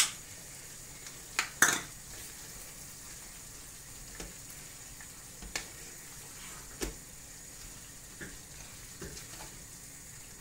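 Beef and bell pepper stir fry sizzling steadily in a frying pan, with a wooden spatula knocking and scraping against the pan as it is stirred. The loudest knocks come in the first two seconds, with a few lighter ones later.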